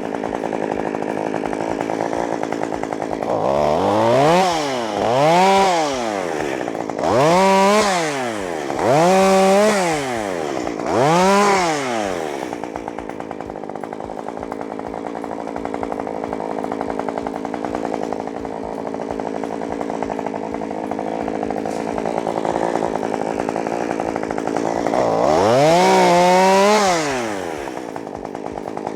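Chainsaw engine idling, revved up and back down five times in quick succession, then revved once more near the end.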